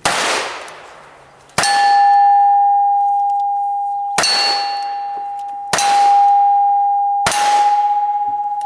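Five gunshots about one and a half seconds apart at a cowboy action stage. The last four are each followed by a steel target ringing out with a long, clear tone that carries on until the next shot.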